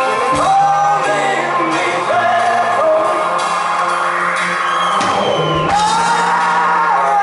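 Live rock band playing, a male singer holding long notes that slide up into pitch over a steady bass line, reaching a high, loud held note about five seconds in.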